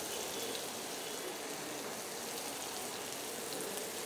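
Chopped onions, tomatoes and curry leaves frying in oil in a wok, a steady sizzle.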